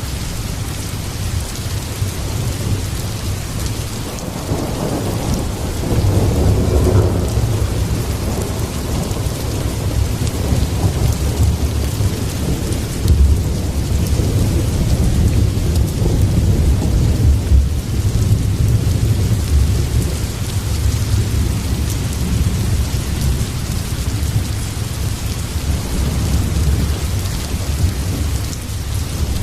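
Heavy rain falling steadily, with a deep continuous rumble of thunder underneath that swells about four seconds in and rolls on.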